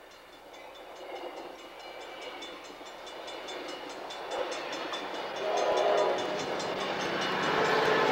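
A Coaster bi-level commuter train passing close by, growing steadily louder as the coaches roll past, with a fast, even clicking from the wheels on the rails. Near the end the diesel locomotive pushing at the rear comes by and is the loudest part.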